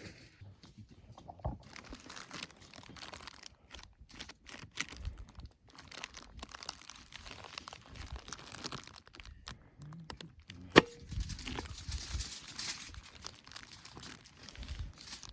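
Irregular rustling and crackling, like wrappers or food being handled, with one sharp click a little before the last third.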